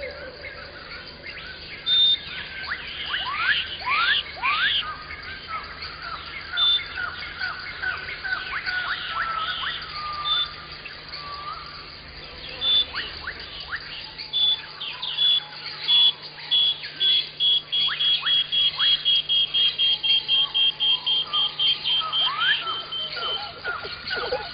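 Several songbirds singing and chirping, with whistled notes that sweep up and down. In the second half one bird gives a long run of rapidly repeated high notes that speeds up before stopping.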